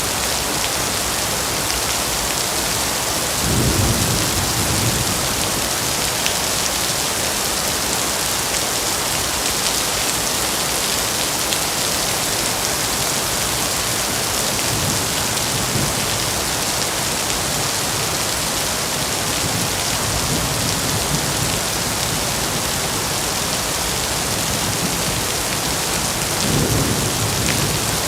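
Heavy rain falling steadily in an even hiss. A low rumble swells up briefly twice, about four seconds in and near the end.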